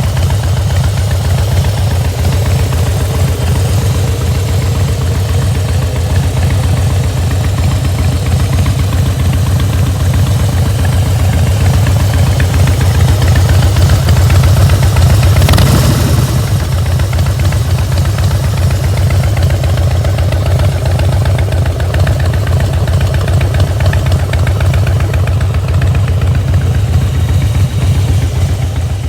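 Harley-Davidson air-cooled V-twin motorcycle engine idling with its uneven, lumpy beat. It grows a little louder about halfway through, with a short sharp noise at its loudest point, then settles back to idle.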